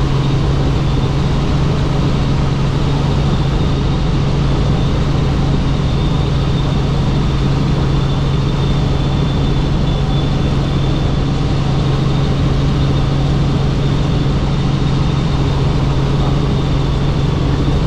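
Helicopter in flight: a loud, steady low drone of rotor and engine, with a faint high whine above it.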